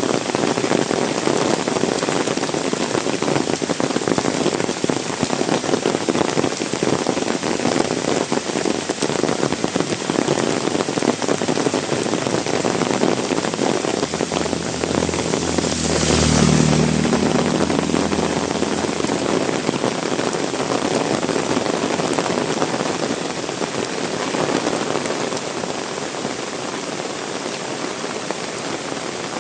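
Heavy rain pouring and splashing on surfaces in a dense, steady rush. About halfway through, a louder swell with a low hum rises and fades over a couple of seconds.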